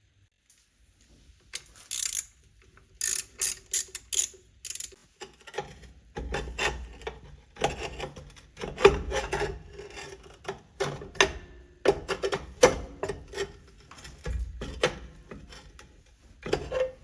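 Hand tools working on metal car parts: irregular ratchet clicks and metallic clinks and knocks while fittings are being undone.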